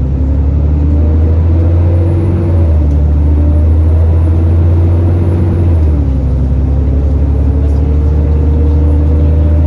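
Alexander Dennis Enviro400 E40D double-decker bus's diesel engine heard on board, running loudly with a steady rumble. Its pitch steps up about a quarter of the way in and drops again a little past halfway. A thin high whine and whirr, the bus's 'hoover' noise, runs over it throughout.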